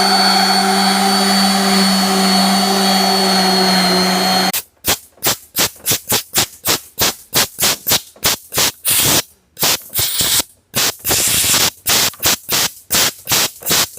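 A steady-running power tool cuts off suddenly about four and a half seconds in. Rapid back-and-forth hand sanding strokes on fiberglass follow, about two to three a second, with a few short pauses.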